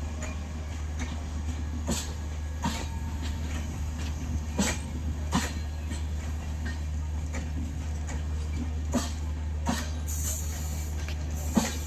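Express train's passenger coaches rolling by with a steady low rumble, their wheels giving irregular sharp clicks over the rail joints.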